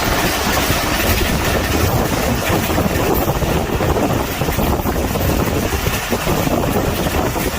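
A train running at speed, heard from on board: a steady, loud rumble and rush of wheels on the rails.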